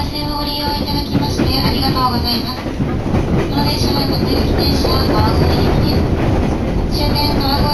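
Electric commuter train running at speed, heard from inside the carriage: a steady rumble of wheels on track with a high whine that comes and goes.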